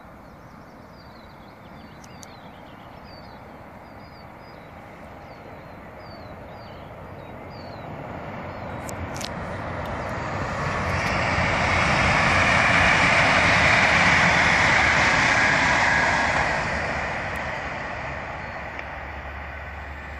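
Sm6 Allegro electric multiple-unit train passing at speed on the main line. The noise of the train builds slowly, is loudest from about eleven to sixteen seconds in, then fades as the train recedes.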